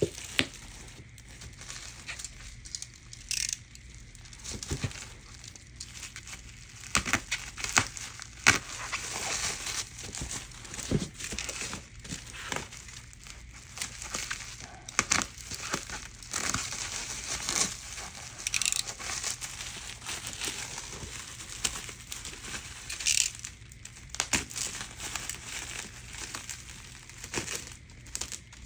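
Paper packing in a shoe box crinkling and rustling in irregular bursts, with scattered small clicks and knocks as the box is unpacked.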